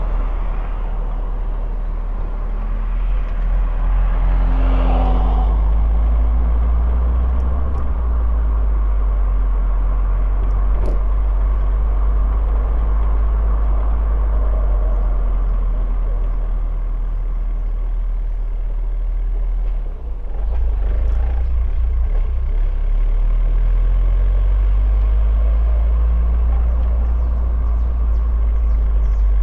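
A car driving along a road: steady low engine and road rumble with tyre noise. The noise swells briefly a few seconds in.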